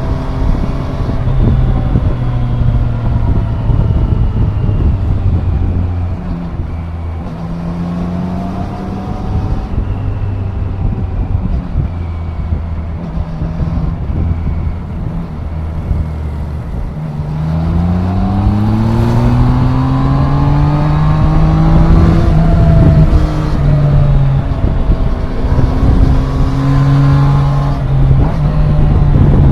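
2024 Triumph Daytona 660's three-cylinder engine under way. It runs at a fairly steady pitch with small throttle changes, then about seventeen seconds in it accelerates, its pitch rising steadily for several seconds before it levels off. Near the end there is another short rise.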